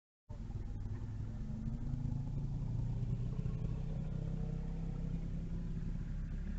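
A motor vehicle engine running steadily with a low drone, rising slightly in pitch about two seconds in. It starts abruptly after a split second of dead silence.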